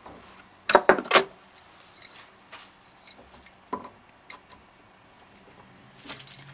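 Hard clicking and clattering of tools and parts being handled: a burst of loud clatter about a second in, then scattered single clicks and knocks, and a short rattle near the end. No machine is running.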